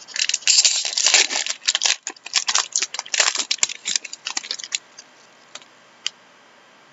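Trading cards being handled, with a dense run of crinkling and clicking for about the first five seconds, then a few scattered clicks.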